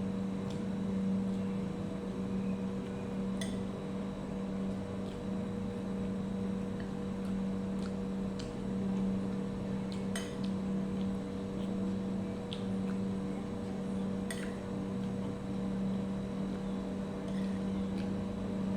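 A steady low mechanical hum, with a few sharp clicks and clinks scattered through it.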